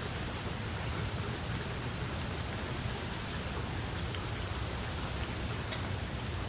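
Steady rainfall, an even hiss of rain with a low rumble beneath and a few faint individual drop ticks.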